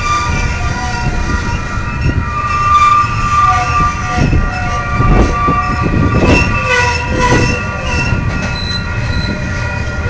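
Loaded coal hopper cars of a freight train rolling past: a heavy rumble with irregular wheel knocks over the rail joints, and several high squealing tones from the wheels that come and go.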